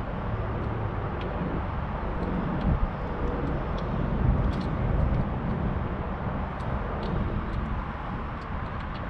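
Steady outdoor background rumble like distant traffic, with a few faint light clicks scattered through it.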